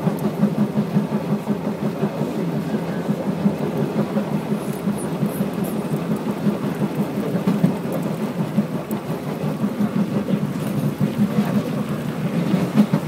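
Steady low rumble of an MRT train car running along the track, heard from inside the carriage.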